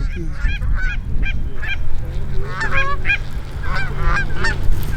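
A flock of geese honking, many short calls overlapping in quick succession, with a low steady hum underneath from about two seconds in.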